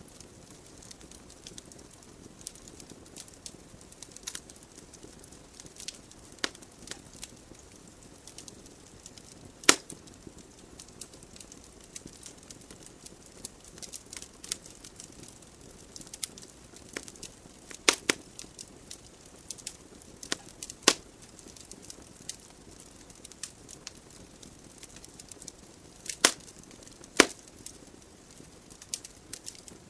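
Wood fire crackling in a fireplace: irregular sharp pops and snaps from the burning logs over a soft, steady hiss of flame, with a few louder cracks scattered through.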